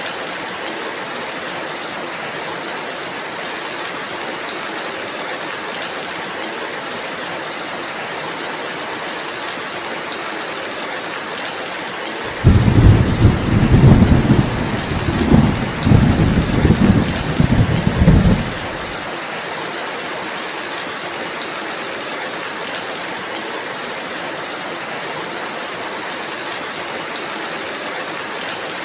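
Steady rain falling. About twelve seconds in, thunder breaks suddenly and rumbles low in several swells for about six seconds, louder than the rain, then the rain alone continues.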